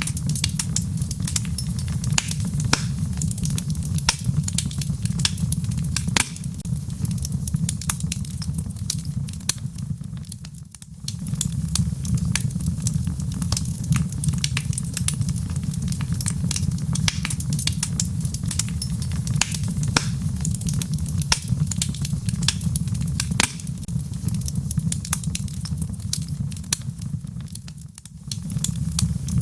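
Wood fire burning in a fireplace: a steady low rumble of flames with frequent sharp crackles and pops from the burning logs. The sound dips briefly twice, about ten seconds in and near the end.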